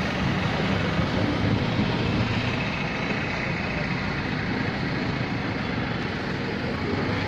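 A vehicle engine running steadily, with voices in the background.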